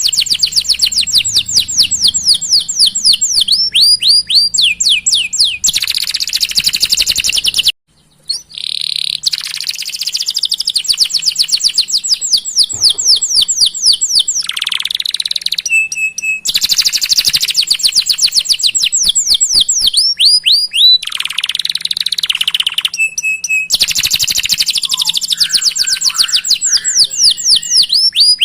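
Domestic canary singing a long rolling song: phrases of rapid, repeated downward-sliding chirps, some trills speeding up and others slowing into separate notes, with short pauses between phrases. The song breaks off suddenly for a moment about eight seconds in.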